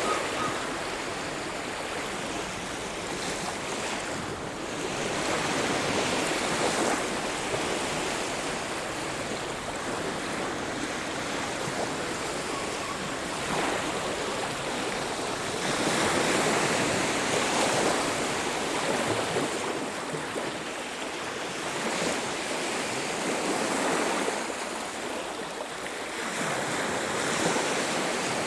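Ocean surf on a beach: waves breaking and washing in, the rush swelling and easing every few seconds.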